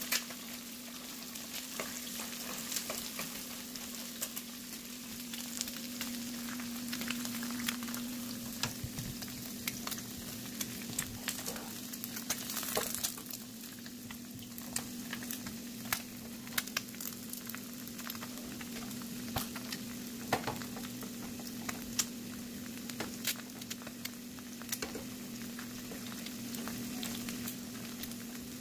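Eggs and green beans sizzling in hot oil in frying pans, with frequent sharp crackles and pops of spattering oil and a spoon stirring and basting in the pan. A steady low hum runs underneath.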